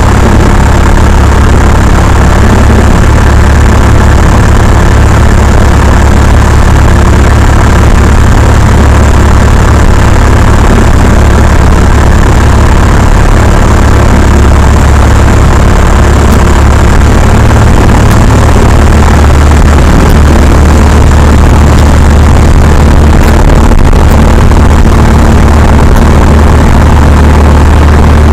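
Cessna 172's piston engine and propeller running steadily: a loud, continuous, even drone.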